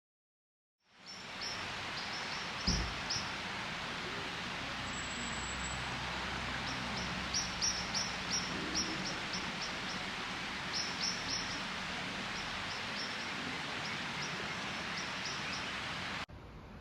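Small birds chirping in short clusters over a steady outdoor rushing noise, with one low thump about two seconds in.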